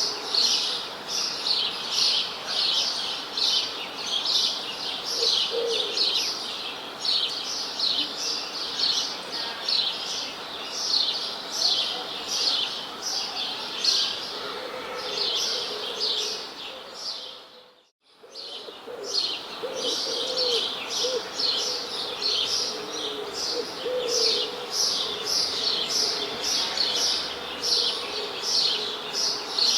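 Small birds chirping in quick, overlapping chirps, with a few lower calls underneath. The sound fades out briefly and comes back about eighteen seconds in.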